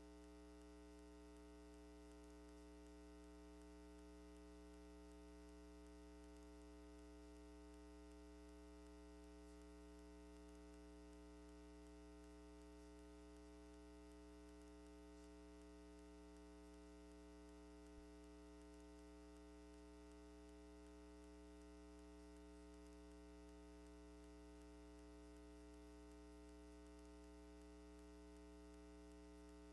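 Steady, faint electrical mains hum with a stack of overtones, unchanging throughout, with one tiny tick about two-thirds of the way through.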